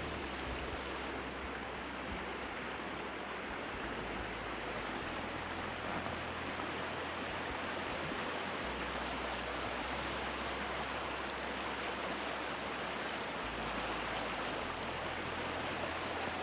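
Steady rushing of flowing water, a stream running over its bed.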